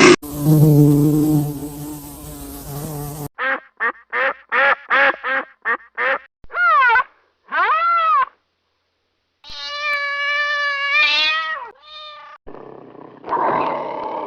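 A string of different animal calls cut one after another. A rough, noisy call comes first, then about eight short pitched calls in quick succession, then two longer calls that rise and fall in pitch. After a brief gap comes a steady held call that bends down at its end, and a harsher call near the end.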